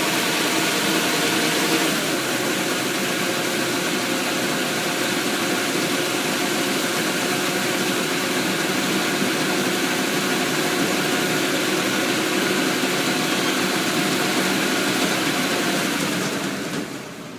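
Thai E-taen farm truck's single-cylinder diesel engine running steadily. The sound drops off sharply near the end.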